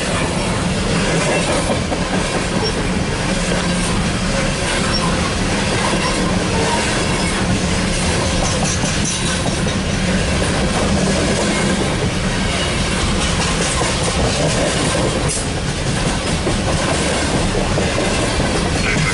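Loaded coal hopper cars of a freight train rolling past close by: a loud, steady rumble with the clatter of steel wheels on the rails.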